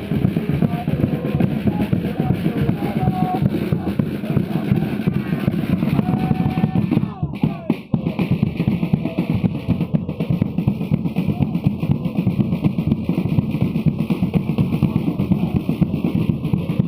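Drum-led music with a dense, steady beat. It breaks off briefly about seven seconds in and starts again.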